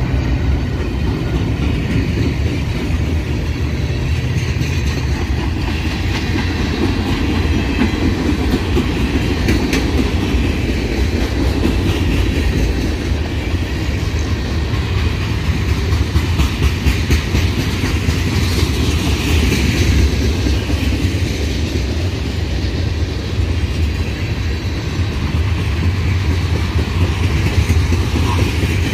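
Norfolk Southern manifest freight train passing close by: a trailing diesel locomotive at first, then a long string of freight cars. The wheels give a steady, loud rumble with repeated clacks over the rails.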